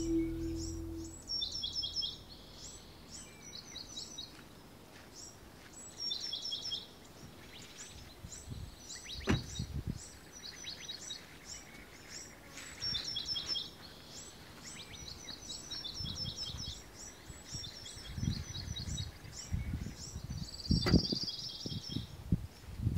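Birds singing: short series of quick, high chirps repeated over and over. A few low thuds come in about a third of the way through and again near the end.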